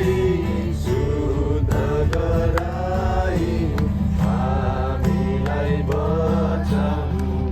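A Nepali Christian worship song: a voice singing a slow, chant-like melody over a steady, sustained low instrumental backing.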